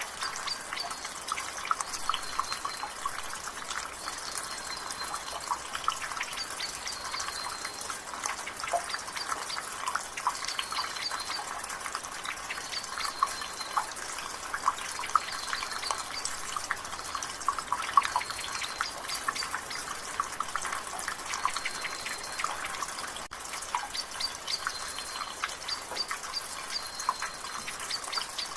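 Rain water dripping from a gutter in quick, irregular drips over a light, steady rain hiss, with a bird repeating a short high call about every two seconds in the background.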